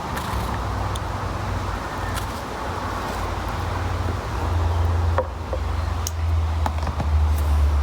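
A steady low rumble, with a few sharp clicks in the second half from a knife cutting strawberries on a board.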